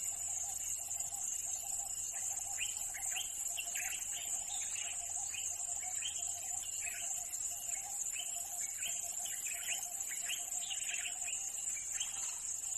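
Insects trilling steadily at a high pitch over a lower steady drone, with a bird giving a run of short, quick chirps from a couple of seconds in until near the end.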